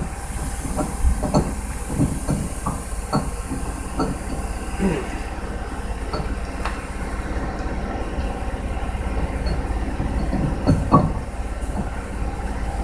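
Haas CNC lathe running as it faces a friction-welded part to cut off the weld curl: a steady low machine hum with irregular clicks and knocks throughout, the loudest about eleven seconds in.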